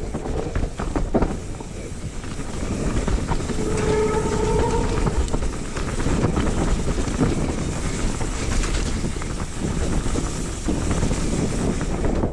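Trek Remedy 8 full-suspension mountain bike running fast down a rough trail: continuous wind rush and tyre noise with constant rattling clatter from the bike, and a brief squeal about four seconds in.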